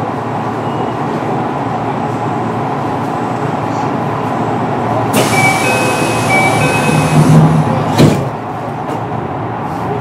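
Kintetsu 9820 series electric train heard from on board, running steadily with a rumble from the rails. About five seconds in, a rush of hiss with a repeated two-tone ringing lasts about two seconds, followed by a sharp knock.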